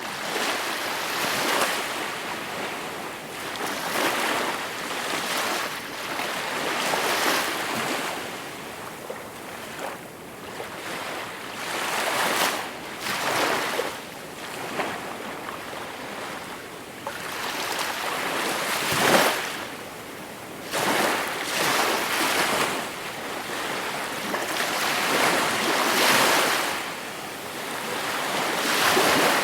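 Gentle sea waves breaking and washing up the shore, the rush of water swelling and easing every few seconds.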